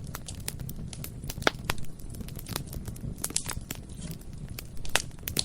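Bonfire burning: a steady low rumble of flames under frequent crackles and sharp pops, the loudest pops about one and a half seconds and five seconds in.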